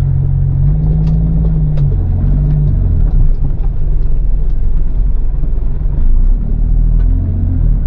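CAT C13 diesel engine of a Kenworth W900B dump truck running as the truck drives. Its pitch climbs, then drops about three seconds in and again near the end, as gears are changed.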